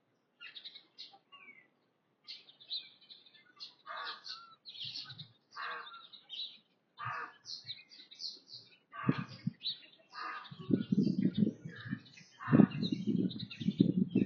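Several small birds chirping and twittering in quick, overlapping calls. From about ten seconds in, louder low-pitched bursts join them and repeat every second or two.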